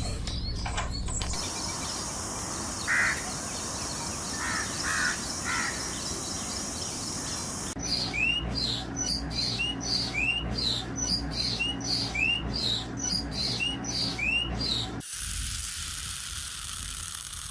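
Birds calling: a few short calls, then a long run of quick, repeated rising chirps, about one or two a second. Near the end the calls give way to a steady hiss.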